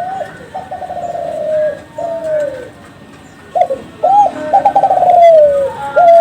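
Kelantan spotted dove (derkuku) cooing its song twice. Each phrase opens with a couple of short hooked notes, runs into a fast rolling trill that slides down in pitch, and ends in a single falling coo.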